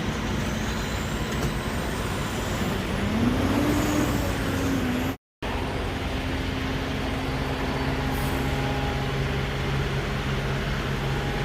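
Semi truck's diesel engine running steadily, heard from inside the cab; the sound cuts out completely for a moment about five seconds in.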